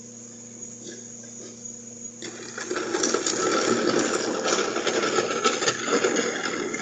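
A mechanism clattering and rattling, full of small rapid clicks. It starts about two seconds in and lasts about four and a half seconds, over a steady background hum.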